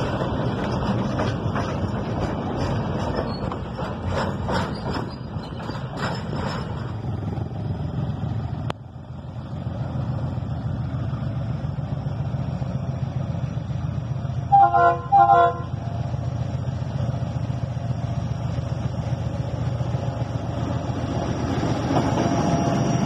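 Loaded freight wagons rolling past with a clicking of wheels over rail joints; then a DF7G-C diesel-electric locomotive running steadily as it approaches, sounding two short horn blasts of several notes together about halfway through, and growing louder near the end as it draws close.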